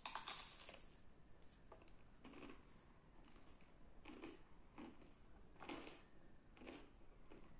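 Faint eating sounds picked up close to the mouth: a short crisp crunch at the start, then soft chewing sounds about once a second while eating naan pizza.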